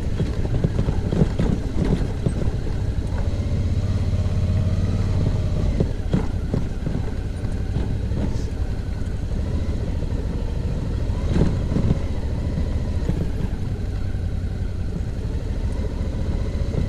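Suzuki V-Strom's V-twin engine running at low speed on a rough dirt track, with a few knocks as the bike goes over bumps.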